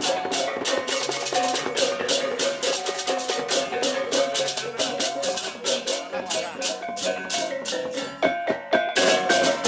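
Balinese gamelan music, of the kind played at a ngaben procession: fast, dense clashing of cymbals over ringing metallic pitched tones.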